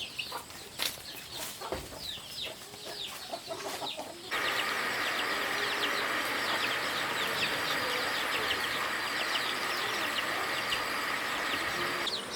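Chickens calling, many short high falling peeps. About four seconds in, the sound jumps abruptly louder and a steady high hum runs under the calls.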